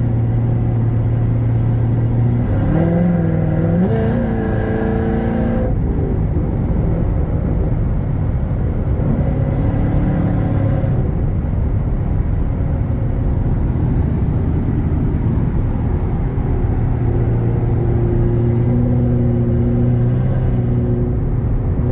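Chevrolet C7 Corvette's V8 engine running while driving. Its pitch climbs in steps about three to six seconds in as it accelerates, then holds steady.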